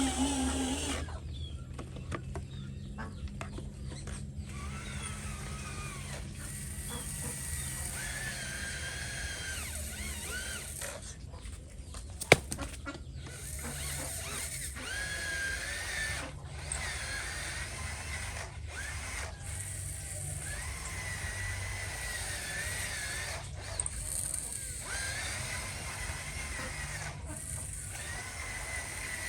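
Small electric motors and gearboxes of radio-controlled construction models whining, the pitch wavering up and down as they work, with a single sharp click about twelve seconds in.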